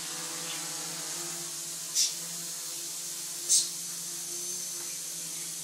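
The four brushless motors of an X-BL Funpilot quadcopter hovering, a steady buzzing hum. Two short, sharp, high-pitched chirps cut through it about two seconds in and again a second and a half later.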